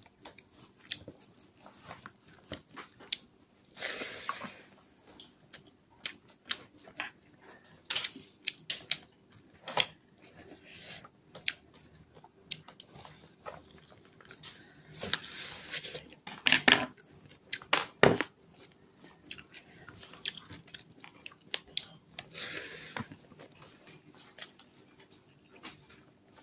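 Close-up chewing and mouth smacking of a person eating rice and chicken curry by hand, with many short, scattered clicks and a few longer rustling patches as fingers mix the food on a steel plate.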